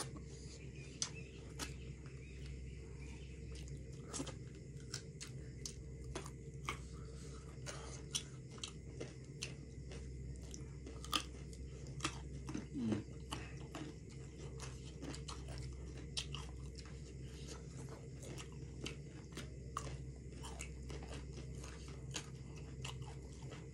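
Close-miked chewing of a last mouthful of chicken biryani: irregular wet mouth clicks and smacks, scattered through, over a steady low hum.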